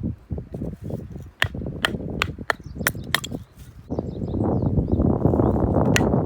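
A run of sharp, irregular snaps and cracks over a rushing noise that grows denser about four seconds in.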